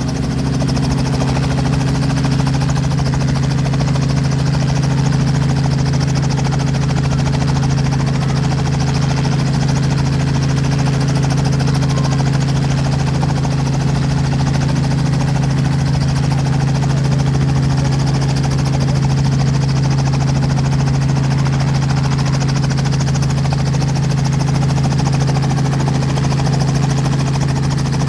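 Helicopter running steadily with a constant low hum and an even hiss, unchanging in pitch and loudness.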